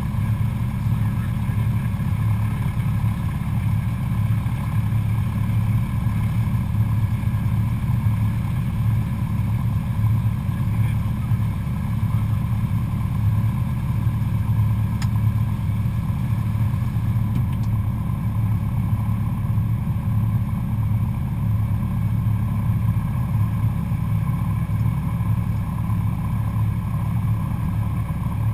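Cessna 172SP Skyhawk's four-cylinder Lycoming IO-360 engine and propeller running at a steady, unchanging drone.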